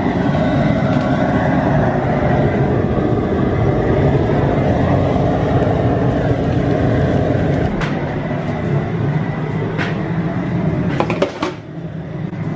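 Propane burner running with a steady rushing flame under a pot of maple sap coming to a rolling boil. A few sharp knocks come in the last few seconds.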